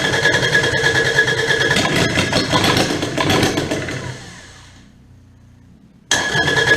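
Kubota D722 three-cylinder diesel cranked on its starter and trying to fire after a refitted injection pump, with air still in the fuel system; it dies away over a couple of seconds about four to five seconds in. Cranking starts again suddenly near the end.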